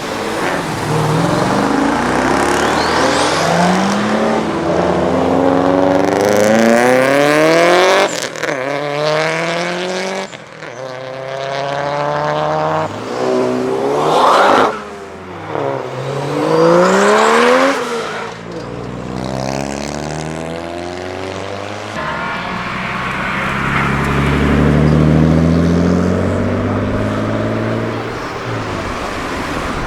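Modified cars' engines revving and accelerating hard as they drive past, their pitch rising again and again through the gears, in three spells of hard acceleration.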